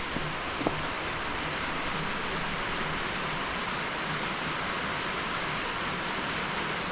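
Heavy rain falling, a steady even hiss, with two faint taps in the first second.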